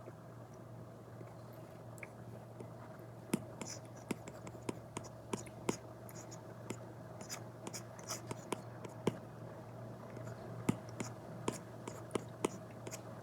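Stylus tip tapping and stroking on an iPad screen covered with a paper-like protective film: irregular light taps, sometimes several a second, with short soft scratches, over a steady low hum.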